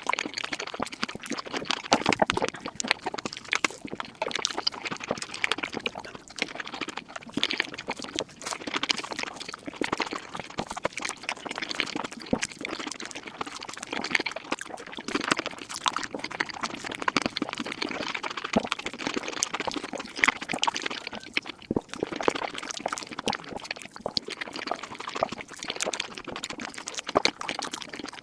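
Close-miked eating sounds sped up about five times: a dense, rapid run of chewing, slurping and smacking clicks.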